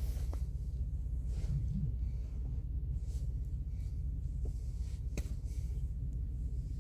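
Semi-truck engine idling, heard inside the cab as a steady low hum, with a few light clicks and rustles of handling.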